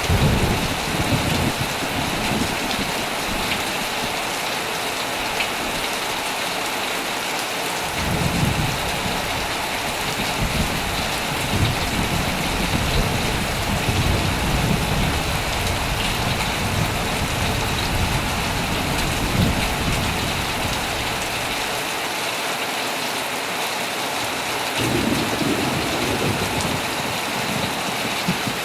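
Heavy rain falling steadily on a tent, with rolling thunder. A short rumble comes at the start, a long rumble begins about eight seconds in and lasts over ten seconds, and another rumble comes near the end.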